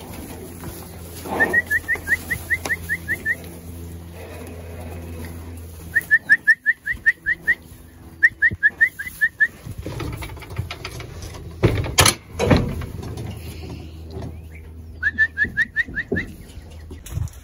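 A bird calling in four quick runs of short, rising, evenly spaced chirps, about five or six a second. A single sharp knock about twelve seconds in.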